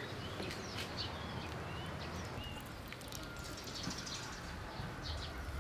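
Small birds chirping in short calls over steady outdoor background noise.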